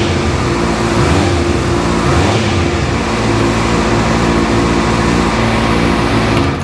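2011 Honda CBF600's inline-four engine running steadily, cut off right at the end.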